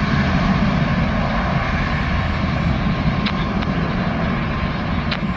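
Boeing 777-200ER's Rolls-Royce Trent jet engines at takeoff power: a steady deep rumble with an even roar above it.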